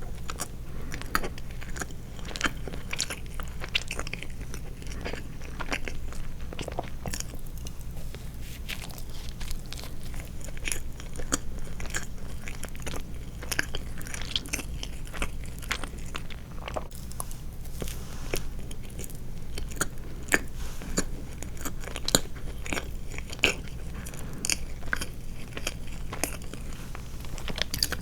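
Close-miked chewing of soft sweets, with many short, wet mouth clicks coming in quick, irregular succession over a faint steady low hum.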